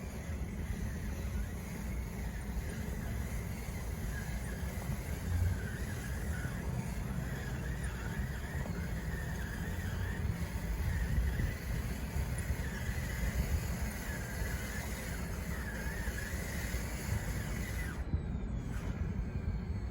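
Radio-controlled bulldozer's electric drive motors and gearbox whining under load, the pitch wavering up and down over a steady low rumble. The whine stops about eighteen seconds in.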